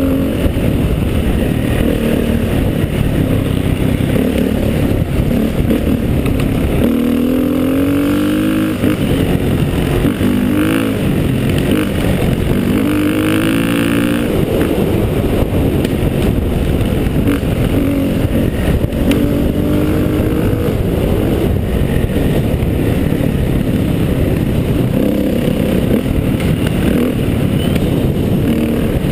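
Motorcycle engine running under load on a steep uphill trail, its revs rising and falling several times, most clearly about seven and thirteen seconds in.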